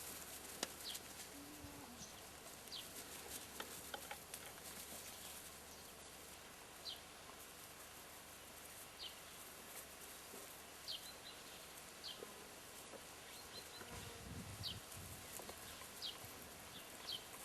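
Faint, short, high chirps of small birds at irregular intervals of about a second, over a quiet outdoor background, with a brief low sound about fourteen seconds in.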